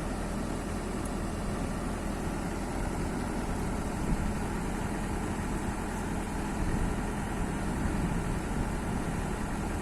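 A large engine idling steadily, an even running hum with no changes in speed.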